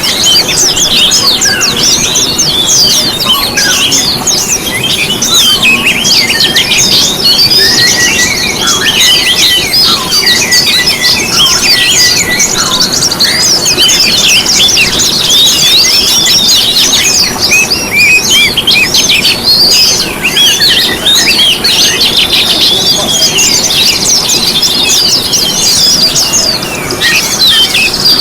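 Dense chorus of many small songbirds, fast overlapping chirps, twitters and short trills.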